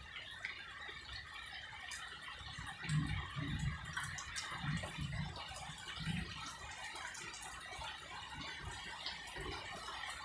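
Steady rain hiss with scattered drips, and a few faint low murmurs about three to six seconds in.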